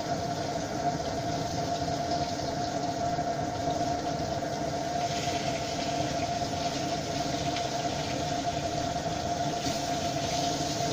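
Pieces of crucian carp frying in a pan over a gas burner: steady sizzling and burner noise with a constant high hum, the sizzle getting a little brighter about halfway through.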